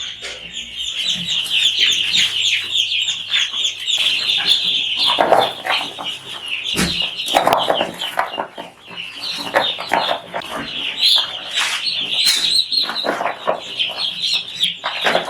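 A crowd of chicks peeping constantly in high, overlapping calls, with a few sharp knocks among them.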